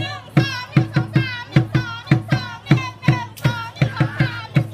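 Children singing or chanting together over a drum beating a steady fast rhythm, about four to five strokes a second.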